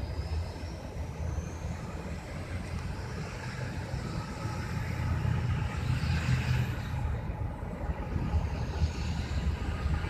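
CSX freight train rolling by, a steady low rumble of engines and wheels on the rails, with a faint high squeal that rises and then falls midway.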